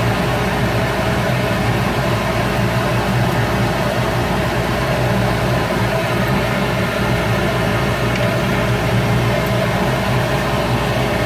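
Shop Fox W1836 midi wood lathe running steadily, its motor humming under an even hiss of spinning work.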